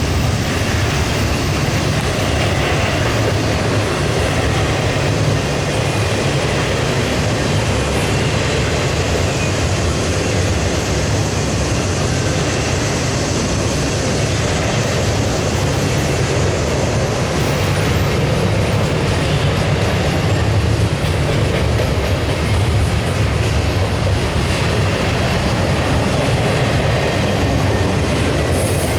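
Intermodal double-stack train's cars rolling past at speed, a steady loud rumble of steel wheels on rail.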